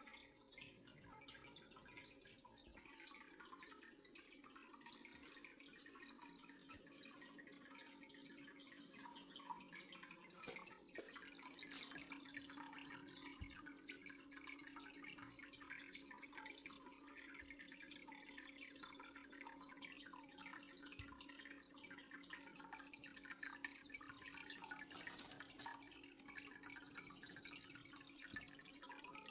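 Faint dripping water, with a low steady hum that comes in about eleven seconds in.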